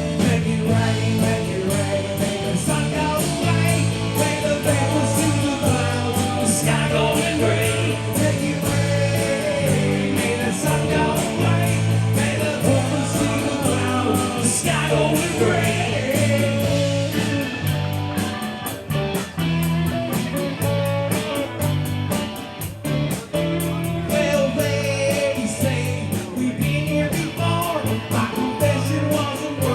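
A song sung with guitar accompaniment, with a steady rhythmic bass line.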